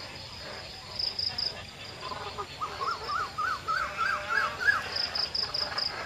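Birds calling: a run of about seven quick rising-then-falling notes from about two seconds in, with short runs of high, rapid chips about a second in and again near the end.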